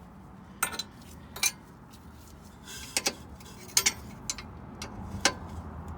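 Metal hand tools clinking against metal: a wrench and sockets knocking on each other and the suspension parts while a bolt is worked loose, about six sharp separate clinks a second or so apart.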